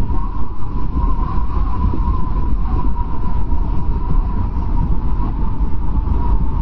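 Strong wind blowing steadily in a snowstorm: a deep, steady rumble with a thin whistling tone that wavers above it.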